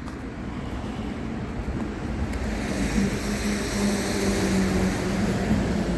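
A motor vehicle running, with a low rumble and a steady engine hum that comes in about halfway through.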